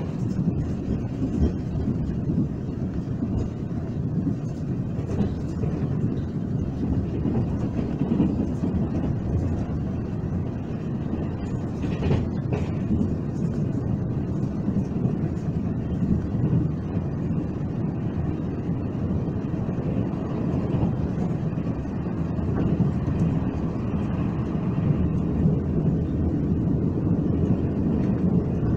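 Steady low rumble and rail noise of a Taiwan Railways express train running along the line, heard from inside the carriage.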